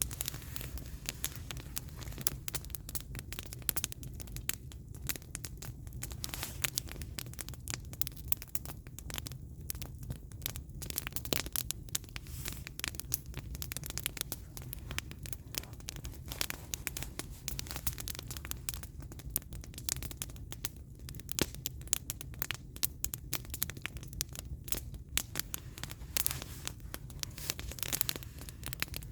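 Wood fire burning, with firewood crackling and popping in quick, irregular clicks over a steady low rumble.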